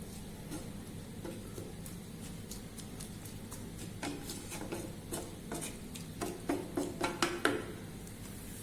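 A utensil stirring spinach in a cooking pan, with scattered clicks and knocks against the pan that come thicker and louder in the second half, over a faint steady hiss.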